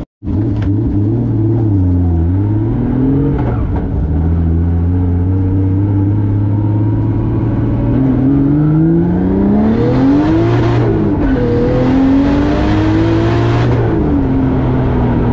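Nissan 240SX with a turbocharged 1JZ straight-six swap, heard from inside the cabin while driving. The revs hold fairly steady, then climb hard about halfway through and dip once as it shifts. A high whine rises with the revs on each climb before the engine settles back to cruising.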